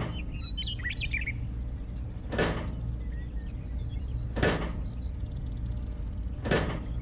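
A steady low hum with four whooshes, about two seconds apart, over it, and a brief bird chirp about a second in.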